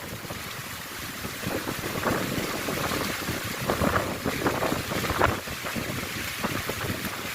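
Strong wind gusting across the microphone in a rainstorm, with rain and choppy water underneath. The gusts come in irregular swells, the strongest about five seconds in.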